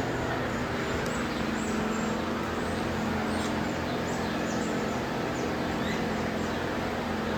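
Many small birds chirping with short, high, falling calls over a steady low mechanical hum like a ventilation fan.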